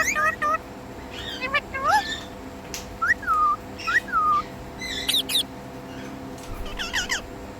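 Indian ringneck parakeet whistling and chirping: a few short rising-then-falling whistles and some sharp, quick chirps, with gaps between them.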